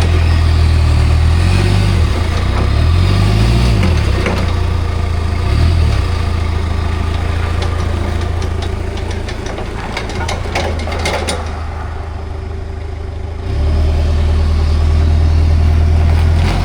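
Komatsu 30 forklift engine running. Its note rises and falls a few seconds in, there is a patch of clicks and rattles in the middle, and then a quieter spell before the low drone comes back strongly near the end. It is running on its newly fitted hydraulic main pump, which is judged to be running well with no more hydraulic leak.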